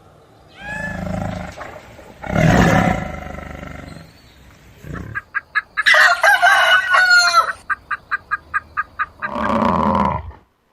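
A series of loud fowl calls: several drawn-out calls, then a run of short clipped calls at about six a second, then one more call.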